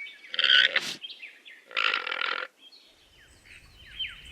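Alpaca giving two short, harsh calls about a second apart. Small birds chirp in quick falling notes from about three seconds in.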